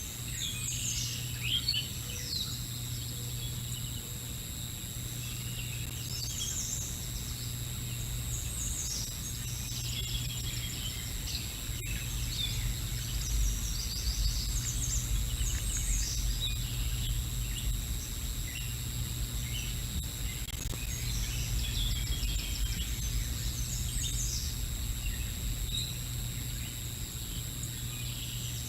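Outdoor birdsong: small songbirds chirping and calling in short scattered phrases throughout, over a steady low hum and a low rumble.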